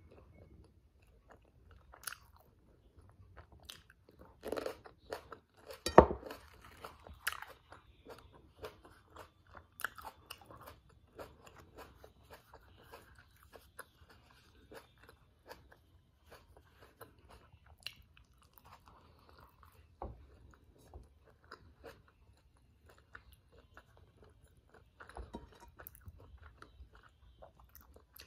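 Close-miked eating: bites and chewing of toasted black bean and vegetable wraps and cherry tomatoes, an uneven run of crunches and mouth clicks. The loudest crunch comes about six seconds in.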